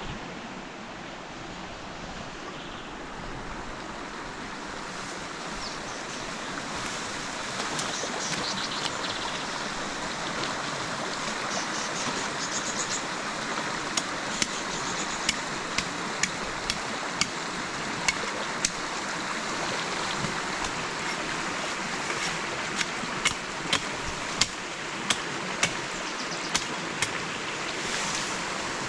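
Steady rushing of river water. In the second half, sharp knocks come roughly once a second.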